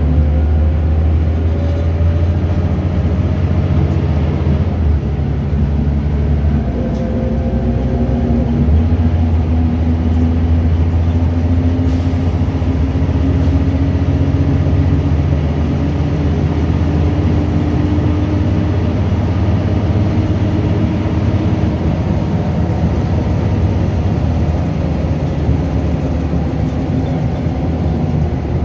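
Scania DC9 nine-litre diesel engine of a bus pulling under load through a ZF Ecomat automatic gearbox. The engine note climbs, drops sharply about 5 seconds in and again about 8 seconds in, then climbs slowly for a long stretch before running steadier. A faint high whine rises and falls with it.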